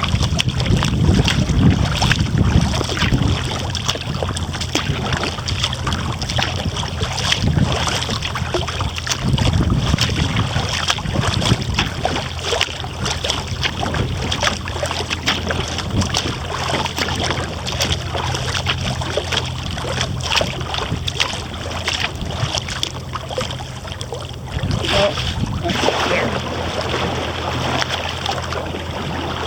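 Kayak paddling: the paddle blades dip and splash, with water dripping and trickling off them in a steady run of small splashes. Low wind rumble on the microphone comes and goes, strongest near the start and again around ten seconds in.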